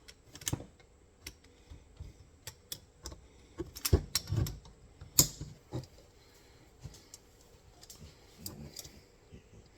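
Irregular small metal clicks and clinks as a bolt and nut are fitted into the frame of an MB-550 steel foothold trap, with a louder knock about four seconds in and another just after five seconds.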